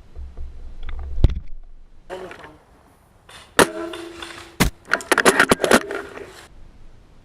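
Sharp metallic clicks and rattles from handling a spring-powered airsoft sniper rifle and gear: one sharp knock about a second in, two more a second apart in the middle, then a quick run of clicks and rattles.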